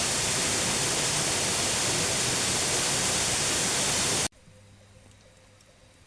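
Waterfall rushing, a loud, steady roar of water that cuts off abruptly about four seconds in, leaving only a faint low hum.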